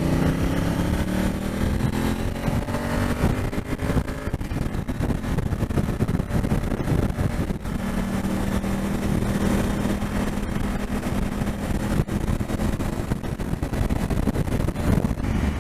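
Motorcycle engine pulling up in revs for the first few seconds, then running at a steady cruise, under constant wind rush from riding.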